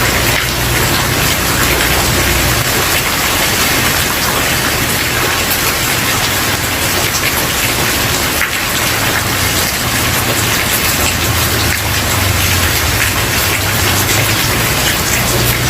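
Steady rain falling on a wooden porch, a dense even hiss of drops with a low rumble that fades in and out underneath.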